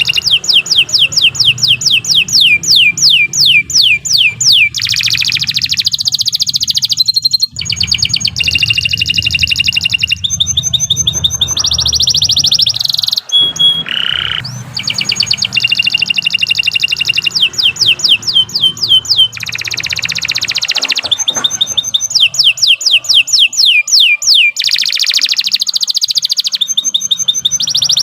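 Domestic canary singing a long, unbroken song of rapid trills. Each phrase repeats one high note many times a second, then switches straight to a different trill every couple of seconds. A faint low hum sits underneath.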